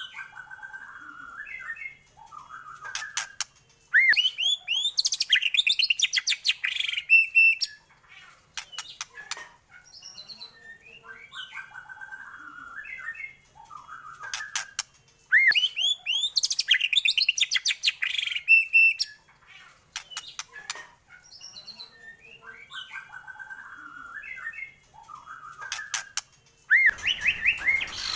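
White-rumped shama (murai batu) song: quieter warbled phrases alternate with loud bursts of rising whistles and rapid trilled notes. The same song cycle repeats about every 11 seconds, as in a looped recording, and a background hiss comes in near the end.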